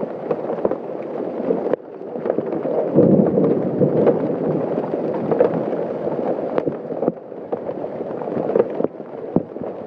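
Large hailstones, golf-ball to baseball size, pelting down in a heavy storm: a dense, steady hiss of falling ice and rain with many sharp knocks of individual stones striking hard surfaces.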